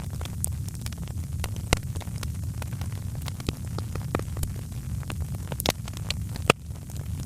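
Wood fire crackling: irregular sharp pops and snaps of varying strength over a steady low rumble, with two louder pops, one early and one near the end.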